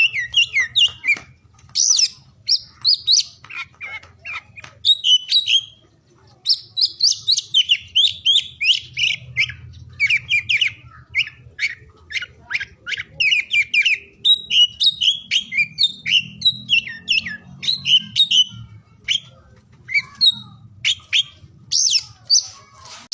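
Oriental magpie-robin (kacer) singing: fast phrases of varied sharp chirps and whistles, with short breaks about a second and six seconds in.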